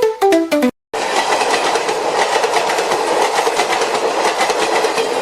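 A few plucked musical notes stepping downward end abruptly, and after a moment's silence a passenger train is heard running along the track: a steady rushing noise with rapid wheel rattle and a faint steady whine.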